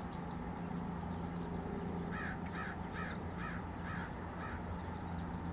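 A bird calling in a run of about seven short notes, roughly two to three a second, starting about two seconds in, over a steady low hum.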